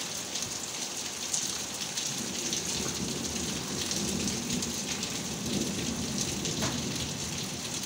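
Heavy rain falling steadily, drops pattering on hard surfaces, with a low rumble of thunder in the middle.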